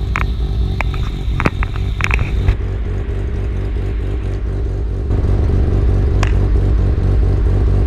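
Car engine idling steadily, with a few sharp clicks in the first couple of seconds; the engine sound gets louder about five seconds in.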